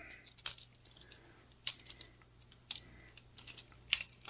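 Trainer balisong (Boker Plus butterfly knife) being flipped by hand: its metal handles and blade clack together in a string of sharp, irregular clicks, several in quick succession about three seconds in.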